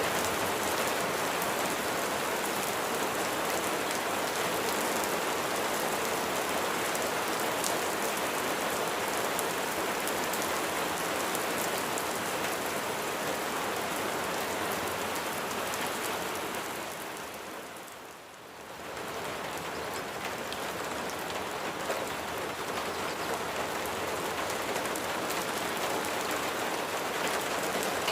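Steady rain falling on surfaces: a dense, even hiss with a patter of drops. About two-thirds of the way through it fades down briefly and swells back to the same level.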